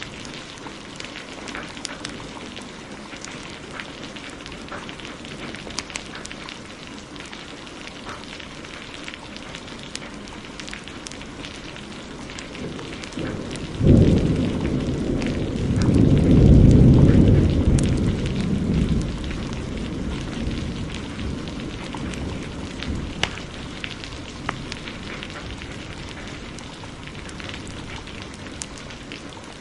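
Heavy rain with a crackling wood fire, its pops sounding throughout. About halfway through, a thunderclap breaks in suddenly as a deep rumble that swells again and rolls away over several seconds.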